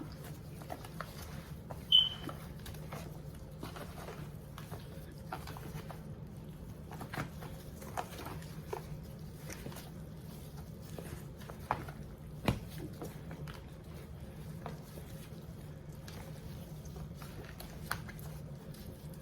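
Gloved hands mixing and rubbing seasoning into raw chicken legs: quiet, scattered squishes, pats and clicks of wet meat, over a steady low hum. A brief high squeak about two seconds in.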